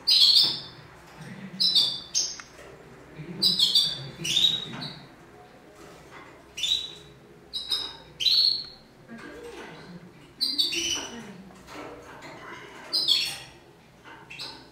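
A bird chirping over and over: short, loud, high calls that drop in pitch, roughly one every second or two.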